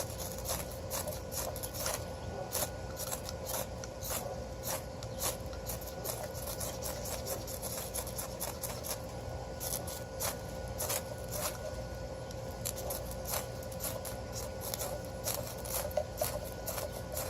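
Knife blade scraping green pine in repeated short rasping strokes, a couple a second, working it down into shavings for tinder.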